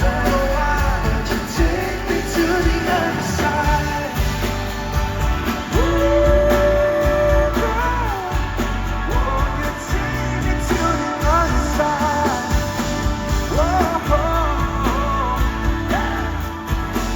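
Live pop band music with a wordless sung melody over a steady band, including a long held note about six seconds in.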